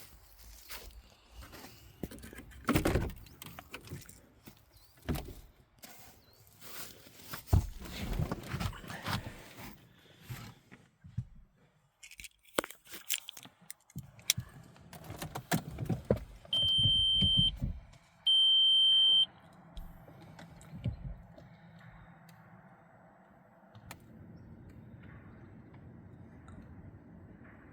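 Footsteps, rattling keys and clicking handling noises, then two long high electronic beeps about a second apart, loud and steady. A faint steady low hum sets in near the end.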